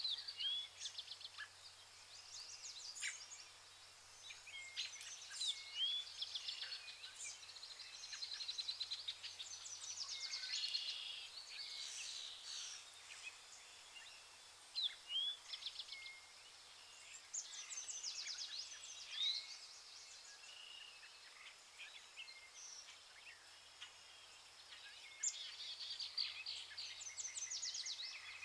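Several birds singing together: overlapping chirps, short upswept whistles and quick rattling trills, with a faint low hum underneath.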